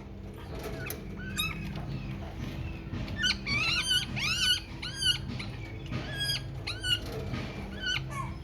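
Baby birds cheeping: a run of short, high, hooked chirps, a few at first, then several a second from about three seconds in, over a low steady hum.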